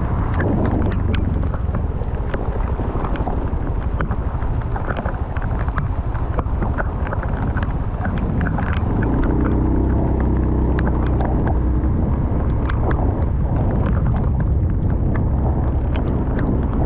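Wind buffeting the microphone in a steady low rumble during a rainstorm, with many sharp ticks of rain striking close by.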